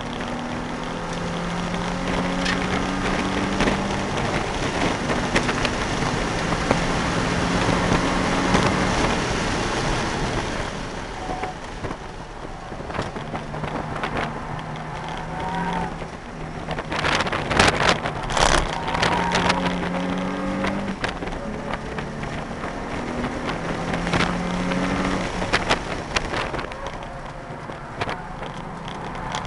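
Nissan 350Z's 3.5-litre V6 heard from inside the cabin, driven hard, its revs stepping up and dropping back with gear changes and lifts, over steady tyre and wind noise. A burst of sharp knocks a little past halfway is the loudest sound.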